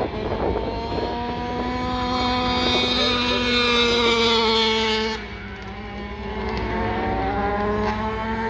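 Dirt bike engines running hard: a held engine note that sags slowly, drops away about five seconds in, then rises again.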